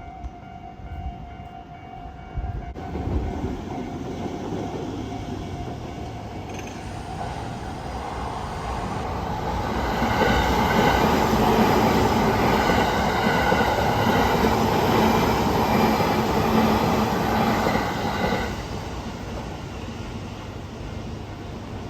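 Train passing over a railroad level crossing: the running noise builds from a few seconds in, is loudest for about eight seconds, then drops off sharply.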